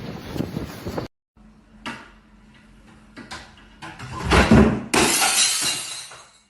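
A few light knocks, then a heavier thud followed at once by a sudden, noisy crash that fades out over about a second.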